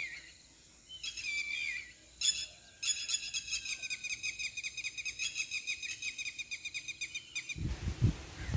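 Birds calling: high chirps repeated in quick runs. A low rumble on the microphone comes in near the end.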